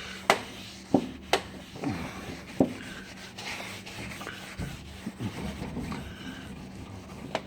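A cloth rag rubbing and wiping across the inside of a smoker door, clearing carbon grime softened by degreaser, with a few sharp knocks in the first second and a half.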